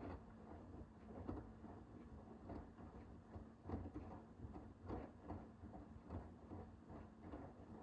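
Hoover H-WASH 500 front-loading washing machine tumbling a wash load: soft repeated swishes and thuds of wet laundry and water in the turning drum, over a faint steady hum.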